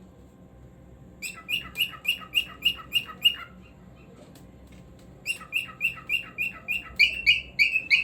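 Pet cockatiel chirping in quick runs of short repeated notes, about four a second: one run of eight notes, then after a pause of about two seconds a longer run whose last notes are louder.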